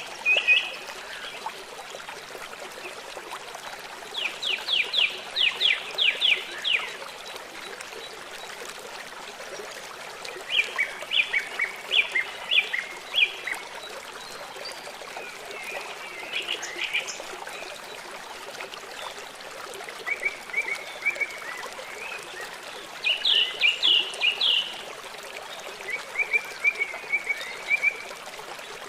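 Steady rush of a flowing river, with a songbird calling over it in short bursts of rapid, repeated high notes, about six phrases a few seconds apart.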